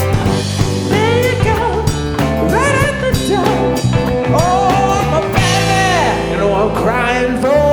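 A rock band playing live: a singer holds a melody over guitar, bass and drums.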